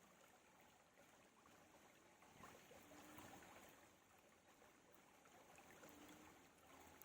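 Near silence: only a faint steady hiss with a few soft ticks.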